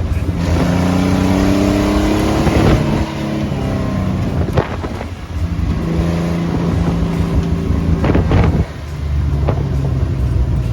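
The rat rod truck's engine accelerating under load. Its pitch climbs, drops about three seconds in, climbs again and drops once more near the end, with a few sharp knocks along the way.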